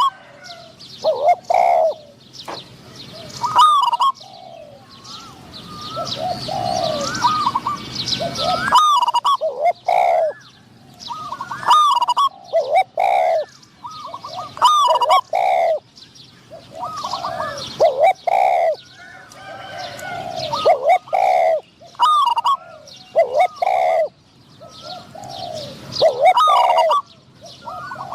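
Spotted doves cooing: one coo phrase after another, every two seconds or so, with higher thin chirps of small birds between them.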